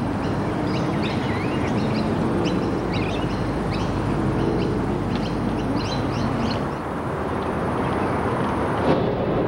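Birds chirping with many short, quick calls, over a steady outdoor background hiss.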